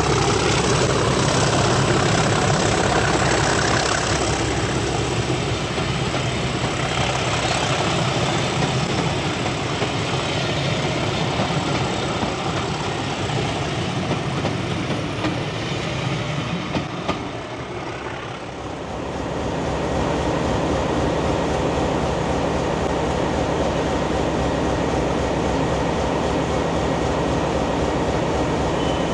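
Heritage passenger coaches rolling past close by, wheels clattering over the rail joints; about two-thirds of the way through this gives way abruptly to a diesel locomotive's engine running steadily at idle close by.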